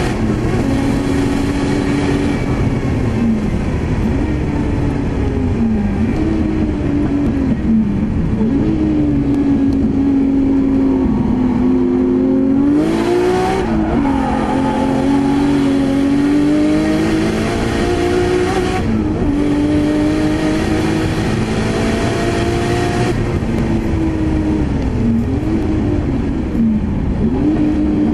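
A Nissan Skyline R32 GT-R N1's twin-turbo straight-six (RB26DETT) heard from inside the car at full racing pace, loud throughout. The engine note climbs through the revs and drops at each gear change, again and again.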